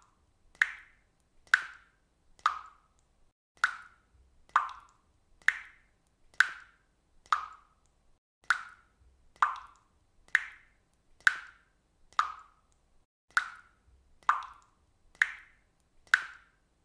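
Water dripping from a faucet, single drops plopping one after another at a steady pace of about one a second, each a short bright plink that dies away quickly.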